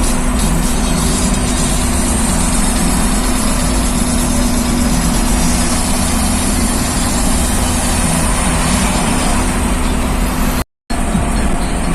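Truck engine running steadily through its exhaust, a loud, even drone with a constant low tone; the sound cuts out completely for a moment about a second before the end.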